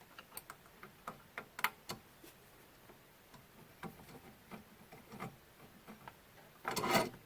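Scattered light clicks and taps of a small bolt and hand tool against the metal spindle mount as a hidden bolt is fumbled into place by feel, with a louder rattling scrape near the end.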